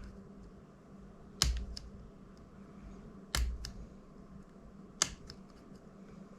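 Three sharp clicks of small hand tools against the drone's plastic parts, about two seconds apart, with a few fainter ticks between them.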